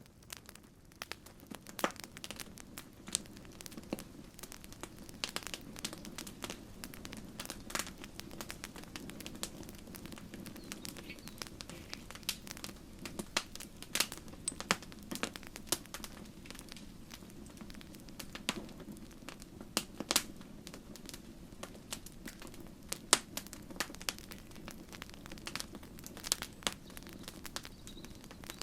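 Wood campfire crackling: irregular sharp pops and snaps, a few much louder than the rest, over a steady low rush of the burning fire.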